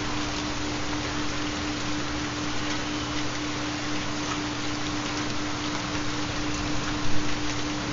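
Recorded rain falling steadily, with a constant low steady tone underneath: the carrier of a 4 Hz theta binaural beat. A slightly louder patter comes about seven seconds in.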